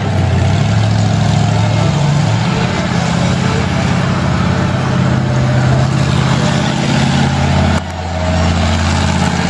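Monster truck engine running loudly in a steady low drone, its pitch shifting a little as the throttle changes. The level drops briefly nearly eight seconds in, then returns.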